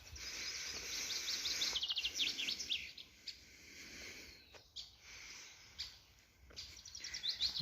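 A songbird singing: a quick run of short, high notes about two seconds in, and a few more near the end, over a faint outdoor hiss.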